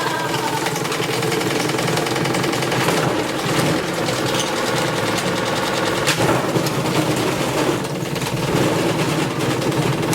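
Top-loading washing machine running with bricks inside its drum: a rapid, continuous clatter of hard knocks and banging over the machine's motor and drum noise.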